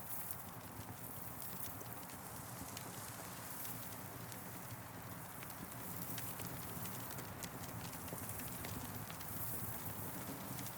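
Campfire burning and crackling: a steady low rush with frequent small sharp pops and ticks.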